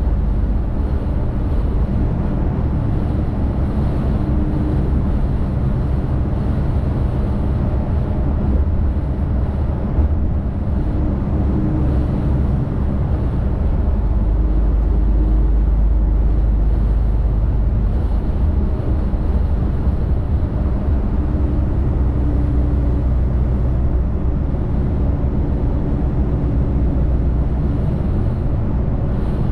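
Tractor-trailer truck driving at speed: steady diesel engine drone and road rumble, with a deeper rumble swelling for several seconds around the middle.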